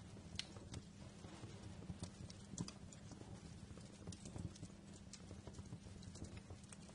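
Wood fire crackling in a fireplace: scattered sharp pops and snaps, a few louder ones, over a low steady rumble of the burning logs.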